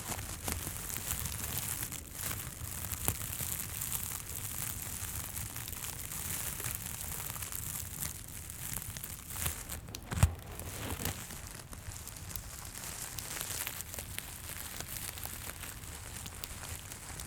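Close-miked crinkling and rustling from a teddy bear being handled and scratched, with one soft thump about ten seconds in.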